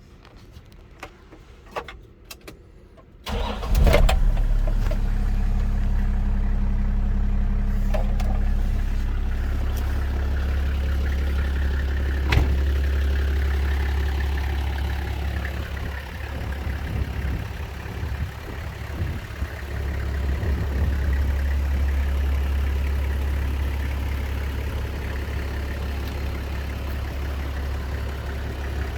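Toyota Land Cruiser tow truck's engine cranking briefly and starting about three seconds in, then idling steadily. A few sharp clicks come before it starts.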